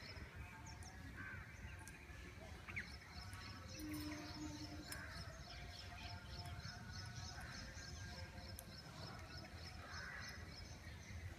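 Green parrots calling, with scattered harsh squawks, over a fast, even high-pitched chirping in the background.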